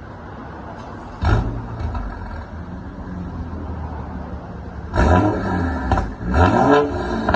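BMW N55 turbocharged inline-six with the muffler replaced by a straight pipe, starting cold about a second in with a loud flare, then settling into a fast idle. Near the end the throttle is blipped twice, the revs rising and falling.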